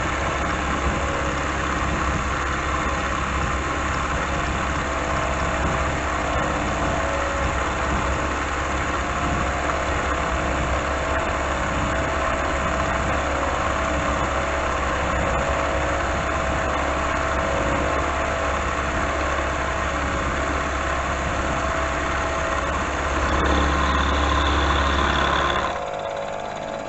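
Milling machine taking a cut through a steel block with an end mill: steady motor hum with continuous cutting noise. It grows louder about 23 seconds in, then drops off sharply near the end.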